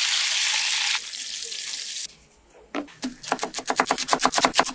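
Chicken frying in hot oil and butter, a loud sizzle that drops sharply in level about a second in and stops at about two seconds. After a brief pause comes a fast run of sharp clicks or taps, about five a second.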